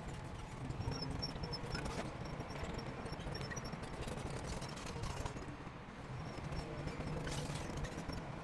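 Crawler bulldozer's diesel engine running with a steady low rumble, overlaid by a dense, irregular clatter of clanking and knocking typical of its steel tracks working.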